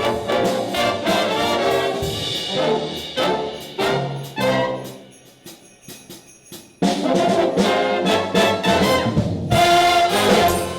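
A school band playing holiday music led by brass, with trumpets and trombones. The music drops to a quiet passage midway, then comes back in loud about seven seconds in.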